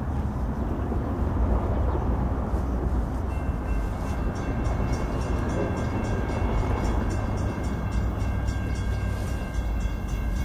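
Train approaching out of sight with a steady low rumble. About three seconds in a steady high whine joins it, then a fast, even clicking.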